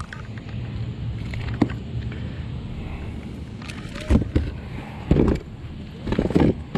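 A few sharp knocks and thumps, the loudest a little past the middle and near the end, over a steady low hum.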